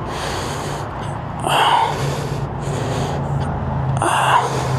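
A person breathing hard, with two loud gasping breaths, about a second and a half in and again near the end, over a steady low hum.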